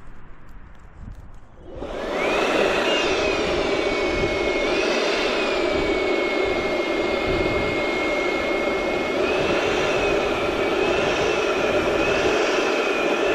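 Electric balloon inflator switched on about two seconds in and running steadily, its whine wavering in pitch as it blows air into a latex balloon.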